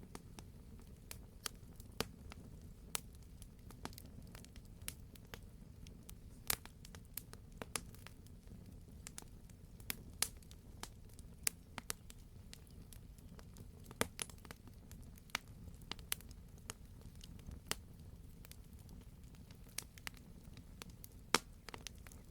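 Wood fire burning in a fireplace: a steady low rumble of flame with irregular sharp crackles and pops from the burning logs, several a second. The loudest pop comes near the end.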